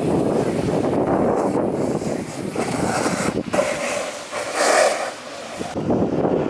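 Wind buffeting the microphone of a moving rider, a loud, rough rumble. A brief brighter hiss comes about four to five seconds in.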